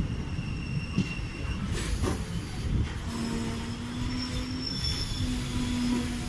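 Passenger train running on the rails: a steady low rumble with thin, high-pitched wheel squeal. A steady low hum comes in about three seconds in.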